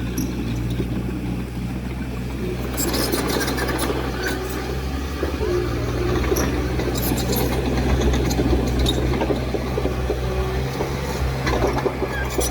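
Heavy diesel earthmoving machine engine running steadily under load, with sharp metallic clanks about three seconds in, about seven seconds in and near the end.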